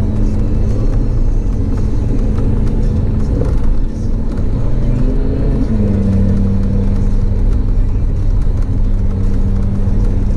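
Stage 1-tuned Audi TT RS's turbocharged five-cylinder engine running steadily under way, heard from inside the cabin. The engine note breaks briefly about four seconds in and settles into a new steady note around six seconds.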